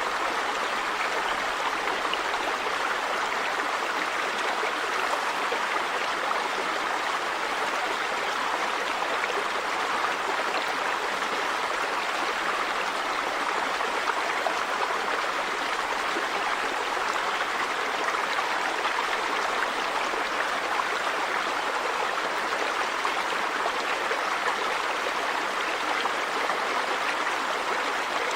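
River water running over rocks, a steady rushing and babbling flow.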